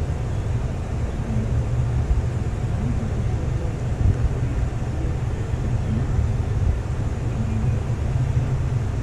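Steady low rumble of a 2025 Chevrolet Tahoe High Country running at idle, with no distinct knocks or changes.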